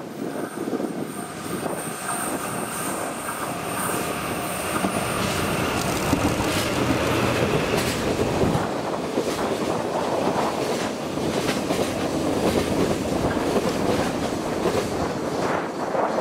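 A JR Freight train running past, its wagon wheels clattering over the rails with a steady rumble and a thin high wheel squeal.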